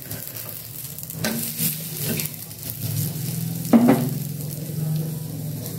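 Grated-potato cheela sizzling in oil on a flat tawa while it is turned over, with a few short scrapes and one louder scrape or knock against the griddle about two thirds of the way through.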